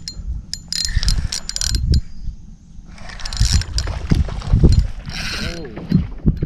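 Spinning fishing reel being cranked in, its gears and line roller giving off a ratcheting, whirring clicking in uneven bursts, over low wind rumble.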